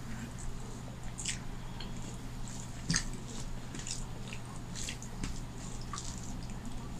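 Close, wet chewing and mouth smacks from eating rice and fish curry by hand, with the soft squish of fingers mixing rice on a steel plate. Irregular small clicks, one sharper about three seconds in, over a steady low hum.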